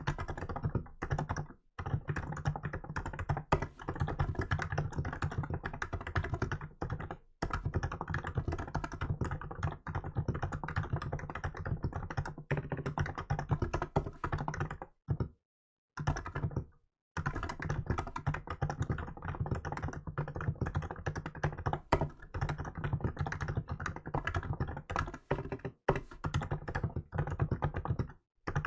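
Steady fast typing on a Hansung GK868B electrostatic-capacitive (contactless) keyboard fitted with milk keycaps: a dense run of key strokes, with a few short breaks and a pause of about two seconds about halfway through.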